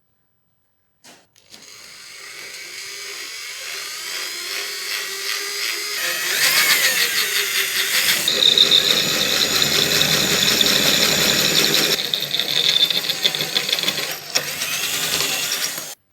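A power tool running: it starts about a second in and builds up, changes abruptly several times, and cuts off suddenly near the end.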